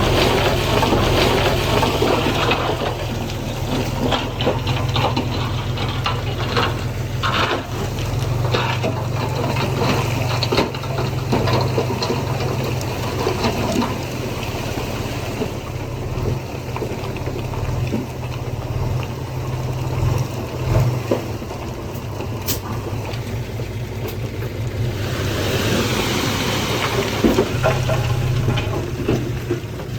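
Heavy diesel engine running steadily under load while loose soil and stones slide and clatter, a rushing, gravelly pour that swells near the start and again near the end.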